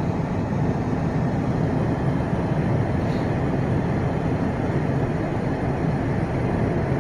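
Steady road and engine noise inside the cabin of a moving 2015 all-wheel-drive Ford Police Interceptor Sedan with its twin-turbo EcoBoost engine, cruising at an even speed.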